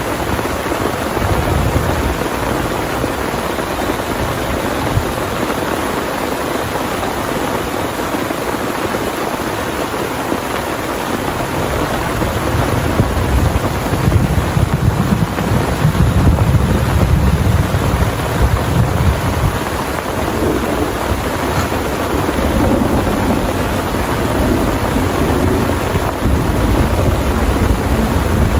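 Heavy rain pouring steadily, with low thunder rumbling that swells up about halfway through, fades, and rolls in again near the end.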